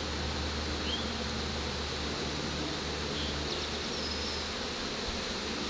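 Honey bee swarm buzzing: a steady hum of many bees in flight around the cluster, still unsettled after swarming.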